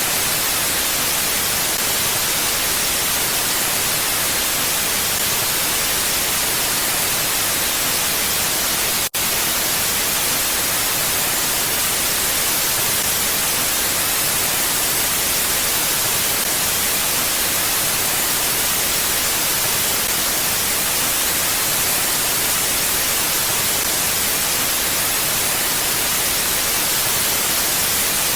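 Steady, even hiss of wind noise with no gusts, brighter toward the high end, which cuts out for an instant about nine seconds in.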